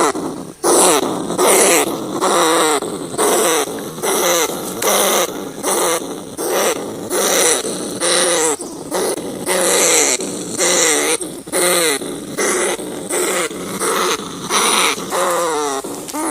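Rats squealing and crying in a fast, unbroken string of short calls, many of them falling in pitch.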